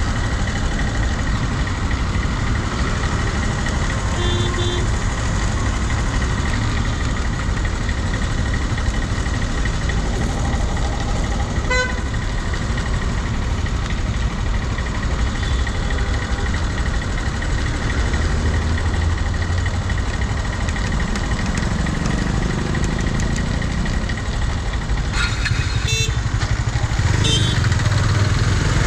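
KTM Duke 250 motorcycle riding through heavy city traffic, with steady engine and wind noise. Other vehicles honk their horns several times, once about twelve seconds in and twice near the end.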